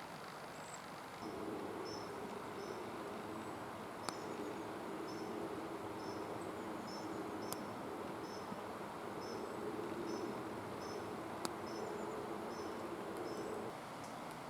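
A small bird repeating a high, short two-note call about twice a second over a steady low hum, with three sharp, single clicks a few seconds apart.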